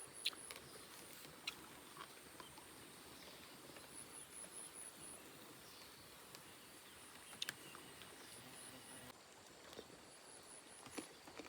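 Near-silent outdoor ambience with faint, high-pitched insect chirping in short runs and a few soft clicks.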